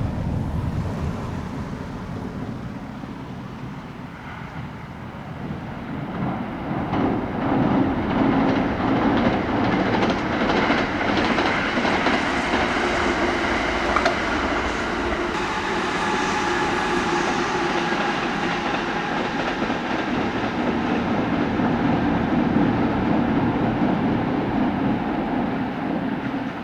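Kintetsu electric train running past, its wheels clacking over rail joints, with a steady whine from its running gear. It grows louder about six seconds in and stays loud to the end.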